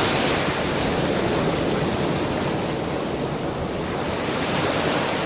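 Ocean surf rushing on a shore, a steady wash of waves that swells near the start, eases off midway and builds again near the end.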